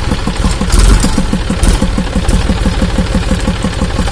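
John Deere 5103 tractor's three-cylinder diesel engine running steadily just after starting, with an even, rapid pulsing beat.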